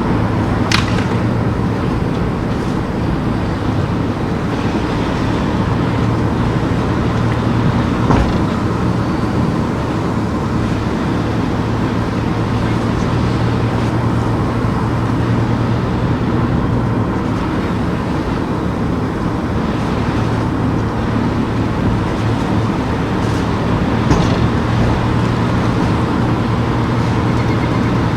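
Car driving on town streets: steady engine and tyre noise with a low hum, broken by a few short knocks.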